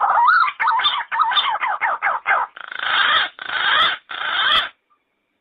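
Yellow-footed green pigeon calling: a run of wavering, bending whistled notes that turn harsher and rougher about halfway through, stopping abruptly near the end.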